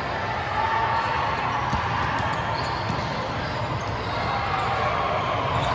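Echoing din of a volleyball gym: a steady wash of distant voices with scattered sharp knocks of balls being hit and bouncing.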